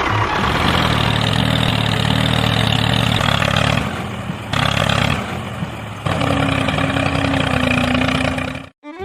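A small motor running steadily with a low hum, in short pieces joined by abrupt cuts.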